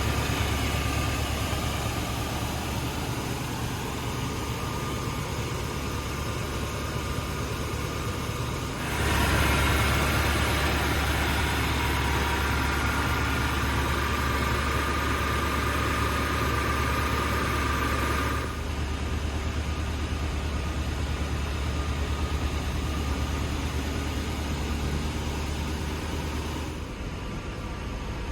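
1965 Ford Thunderbird's 390 V8 idling steadily. About nine seconds in it gets louder, with a steady whine on top, and it drops back to the plain idle at about eighteen seconds.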